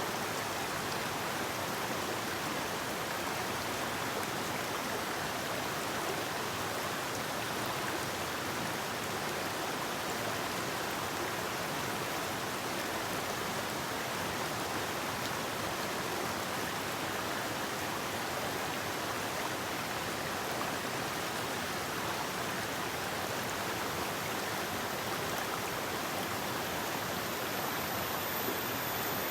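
Forest river rushing steadily, a continuous even wash of flowing water with no birds or other sounds standing out.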